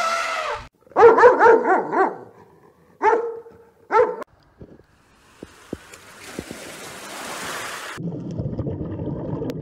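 Small dog, a West Highland white terrier, barking and yipping: a quick run of high barks about a second in, then two single barks. After that a steady hiss, then a low rumbling noise.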